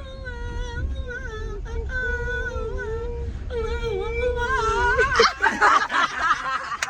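A person sings in long, drawn-out, wailing notes over a backing track's bass. About five seconds in, it breaks up into a loud, jumbled outburst, heard as laughter.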